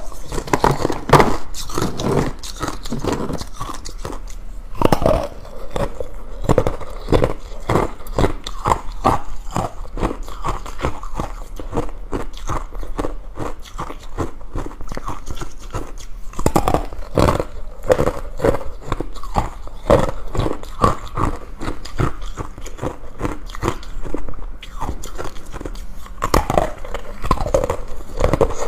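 Ice being bitten and chewed close to the microphone: a steady run of irregular crunches and cracks.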